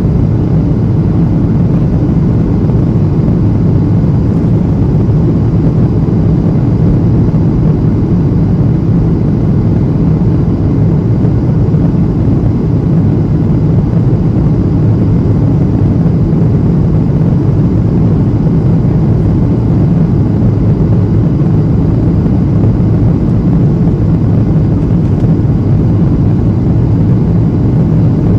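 Steady in-flight cabin noise of a Boeing 737-800 on descent: an even, unchanging rush of engine and airflow noise, strongest in the low range.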